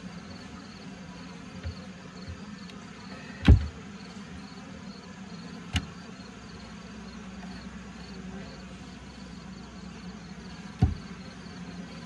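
Honeybees buzzing around an opened horizontal hive, a steady hum, with three sharp knocks while the frames are being handled; the loudest comes about three and a half seconds in.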